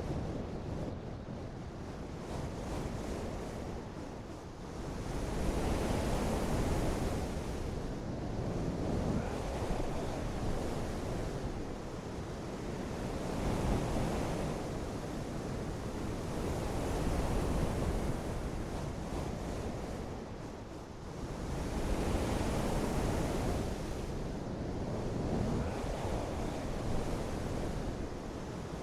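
Steady rushing water noise that swells into a louder surge about every eight seconds and eases off in between.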